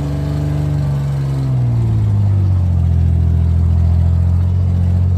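Beater pickup truck engine pulling under load through a leaky, half-removed exhaust, its pitch easing down over the first two seconds and then holding steady. It is running rough, which the driver takes for running even worse than the day before.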